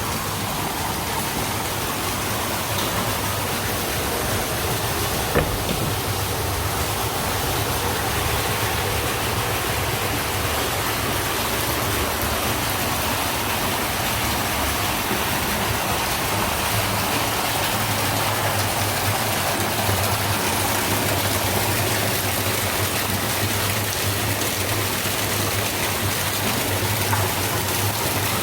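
Hot-spring water pouring and splashing into a bath in a steady, unbroken rush.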